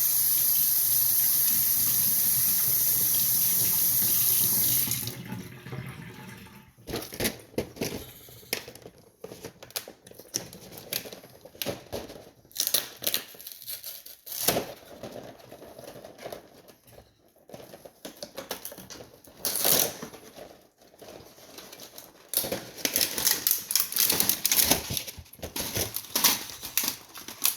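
Water running steadily from a kitchen tap for about five seconds, then shut off. Irregular clicks and rustles of handling follow for the rest of the time.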